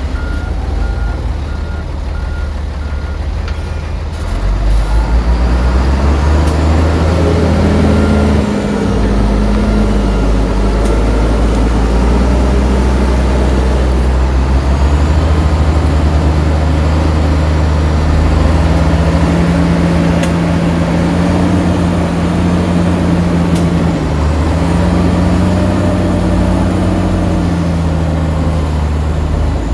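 Heavy diesel engine of earthmoving machinery working under load, revving up, dropping back briefly twice, then holding high. A reversing beeper pulses near the start.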